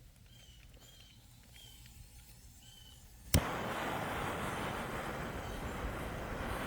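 Faint birds chirping, then a sudden jump about halfway through to the loud, steady crackling and hissing of campfire cooking, which starts with a sharp snap.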